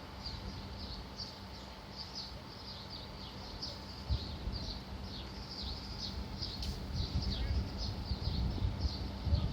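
Bird chirping over and over, short high notes that drop in pitch about twice a second, over a low rumble that grows louder near the end.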